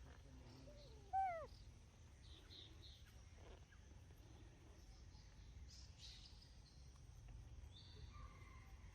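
A single short animal call about a second in, pitched and falling, over a faint low outdoor rumble with scattered faint high chirps.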